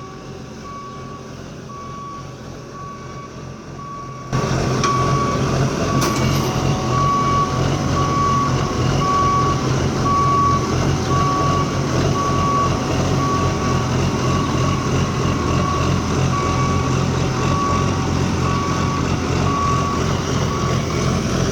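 Telehandler backup alarm beeping steadily, about once a second, while the machine reverses, over its diesel engine running; the engine noise gets much louder about four seconds in.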